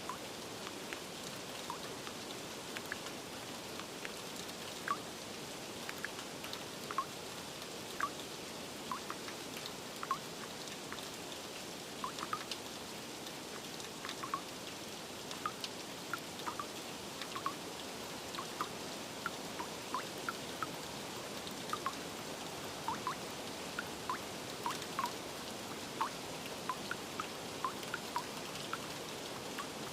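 Steady rain falling, an even hiss with irregular drops plinking one or two a second.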